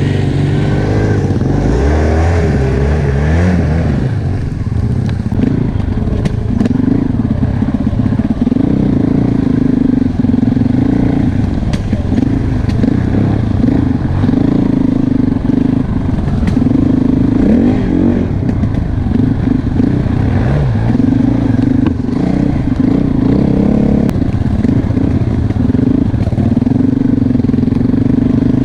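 Enduro motorcycle engine running under way, its pitch rising and falling again and again as the throttle is worked, with light clicks and clatter over it.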